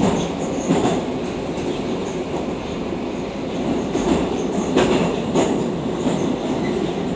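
Moscow Metro 'Oka' train running through a tunnel: a steady rumble of wheels and car body, with a few sharp knocks of the wheels over rail joints.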